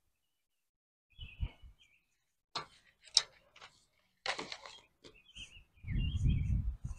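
Short bird chirps at intervals, with several sharp clicks or knocks and a brief low rumble near the end.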